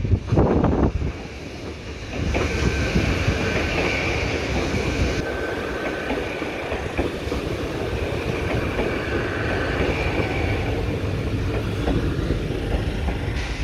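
A train running past on the line, its wheels rolling steadily over the track with a high tone that swells and fades. Wind buffets the microphone in the first second and again near the end.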